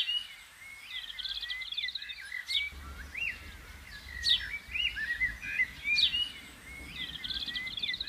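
Small songbirds singing: a varied high song of quick trills, chirps and sharp rising notes, the phrases repeating every second or two, over a faint low rumble from about three seconds in.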